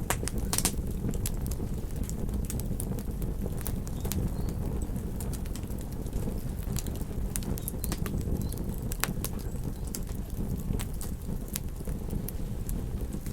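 Wood campfire crackling, with irregular sharp pops and snaps over a steady low rumble of surf.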